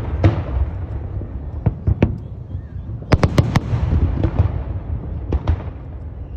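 Aerial fireworks going off in an irregular series of sharp bangs and cracks over a continuous low rumble. There is a quick cluster of about four cracks around the middle.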